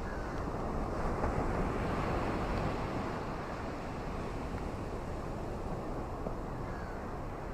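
Ocean waves washing onto a shore: a steady rushing surf that swells about a second in and eases back.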